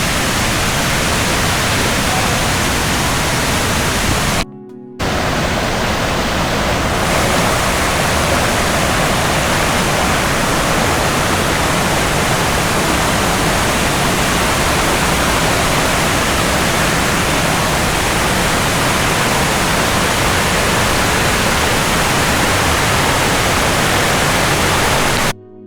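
Waterfall: a steady, loud rush of falling water close by, broken by a brief cut to silence about four and a half seconds in.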